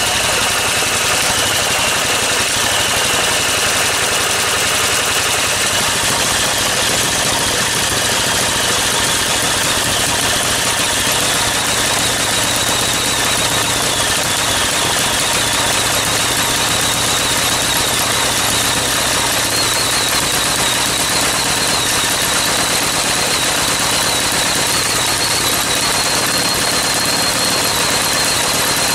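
Small single engine running steadily with a high whine that slowly rises in pitch as it runs.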